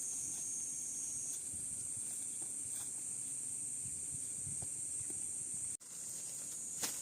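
Steady high-pitched insect chorus, with a few faint knocks beneath it. The sound drops out for an instant about six seconds in, and a sharp click follows near the end.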